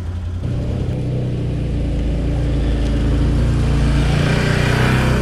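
Tractor engine running under load, its revs stepping up about half a second in and building again near the end.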